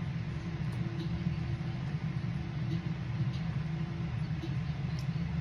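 Steady low hum throughout, with faint scattered clicks of chewing as a sauce-dipped snack is eaten.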